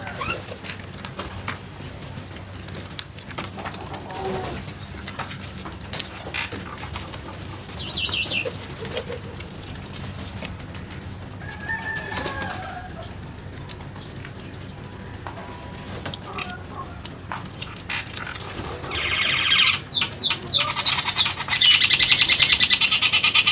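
Birds calling now and then, with scattered clicks and knocks. Near the end comes a loud, rapid, buzzy chatter.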